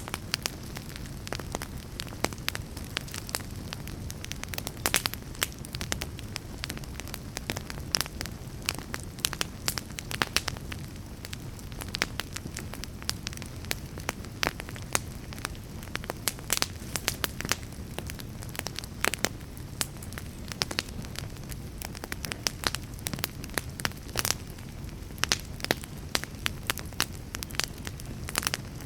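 Fire crackling: a steady low rumble of flames with frequent sharp, irregular pops and crackles.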